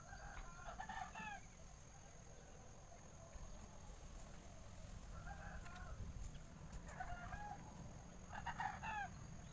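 Bird calls in four short bouts, each a run of pitched, curving notes. The loudest bout comes near the end.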